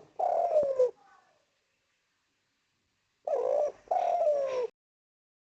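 Spotted dove (derkuku/tekukur) cooing: a two-note coo phrase at the start and another about three seconds later, the second, longer note of each sliding down in pitch.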